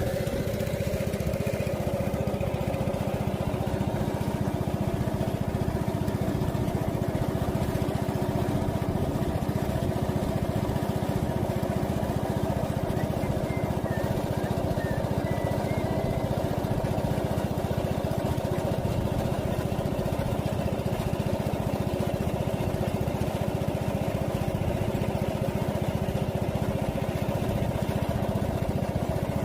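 A small engine running steadily at a constant, unchanging speed.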